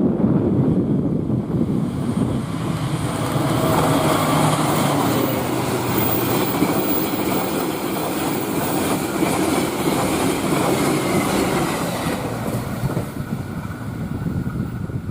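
Passenger train passing close at high speed: a steady rush of steel wheels on rail with clickety-clack over the joints, easing off about twelve seconds in.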